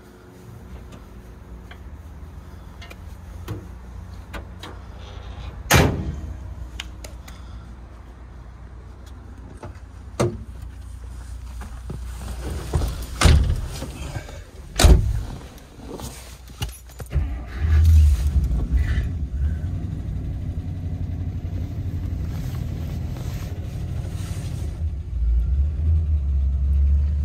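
1957 Chrysler Imperial's 392 Hemi V8 idling just after a cold start, with three sharp clunks partway through. From about two-thirds of the way in, the engine runs louder as the car drives off.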